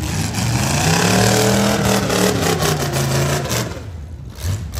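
V8 demolition derby car engine revving hard, its pitch climbing and then falling back, with a few sharp metallic knocks.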